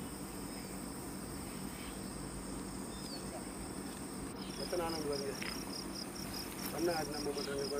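Forest insects shrilling steadily at a high pitch. About halfway in, another insect joins with a rapid pulsing chirp, about four pulses a second. Low voices murmur briefly in the background.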